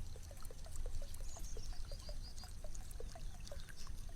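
Water dripping and trickling into water: a quick, irregular run of small plinking drops.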